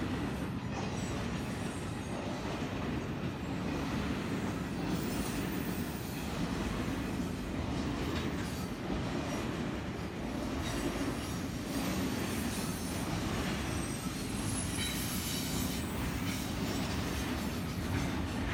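Double-stack intermodal freight cars rolling past, a continuous rumble of steel wheels on rail. There are occasional faint, brief high squeals from the wheels.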